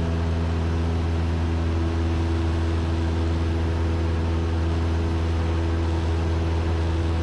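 Cessna 172N's four-cylinder Lycoming engine and propeller droning steadily in flight, heard from inside the cabin.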